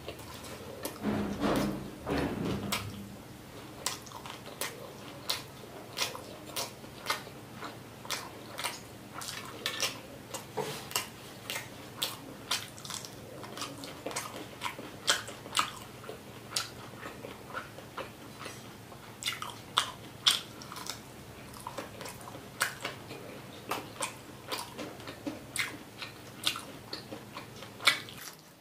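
Close-miked chewing and biting of rice and crisp fried fish eaten by hand: a steady run of sharp mouth clicks, several each second, louder for a couple of seconds near the start.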